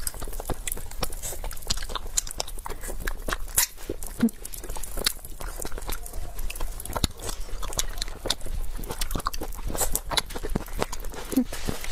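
Close-miked eating sounds: chewing and biting, with many short wet mouth clicks and crunches.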